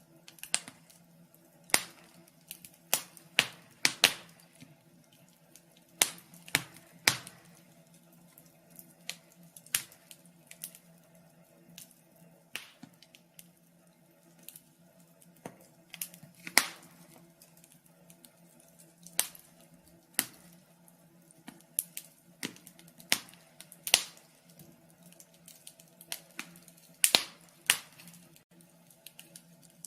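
Wood fire crackling: irregular sharp pops and snaps, about one or two a second, some much louder than others, over a faint steady low hum.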